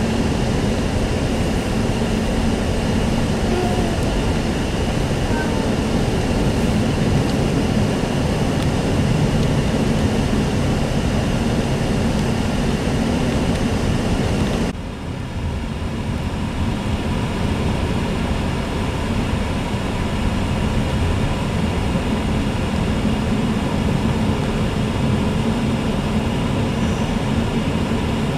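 Steady road and engine noise inside a car cabin, driving through snow. About halfway through, the higher hiss drops suddenly to a lower level.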